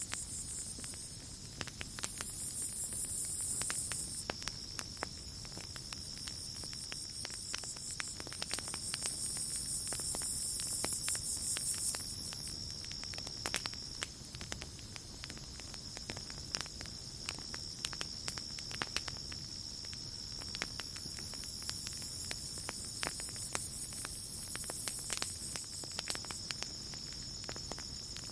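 Night insects: a steady high cricket trill, with a higher buzzing chorus that comes and goes in stretches of a few seconds. Under them a campfire crackles with frequent small sharp pops.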